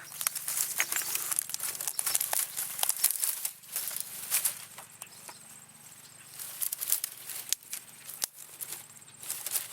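Irregular rustling and crackling of dry leaves, twigs and brush being disturbed, in uneven bursts with a quieter spell a little past the middle.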